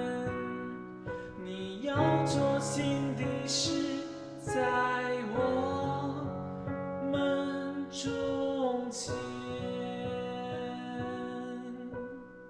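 Piano playing a broken-chord accompaniment in B major, with a woman's voice singing along on held notes; the sound fades away near the end.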